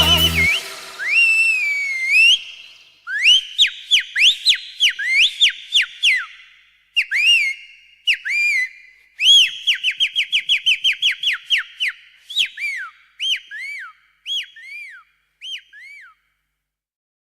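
A long series of whistled notes: swooping glides followed by short rising-and-falling chirps, including a quick run of repeated notes at a steady pace, which stop about 16 seconds in.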